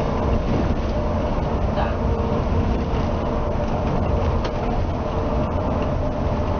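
Steady rumble of a Scania K360ib coach on the move, heard from inside the passenger cabin: engine drone and road noise, with a few faint knocks.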